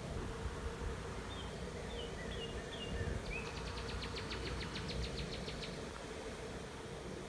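Honey bee swarm buzzing in a steady hum around the hive as the bees move in and fan at the entrance. A bird calls partway through: a few short falling notes, then a rapid trill of about six notes a second.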